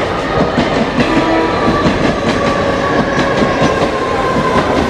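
Mumbai suburban EMU local train running past on a curve: steady rumble with wheels clicking irregularly over the rails, and a thin steady whine that sinks slightly in pitch.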